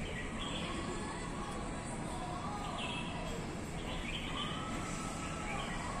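Birds chirping in short calls, repeated several times, over steady outdoor background noise.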